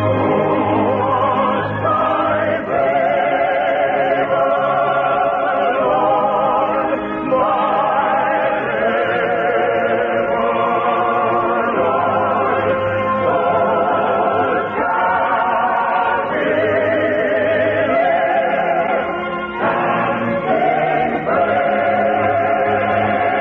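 A choir singing sustained, changing chords with vibrato. The sound has the narrow, treble-less quality of an old radio broadcast recording.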